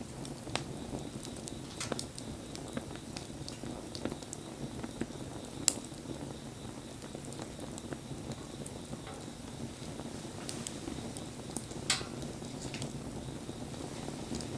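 Wood campfire burning: a steady low rush with scattered crackles, and two louder pops, one about six seconds in and one near twelve seconds.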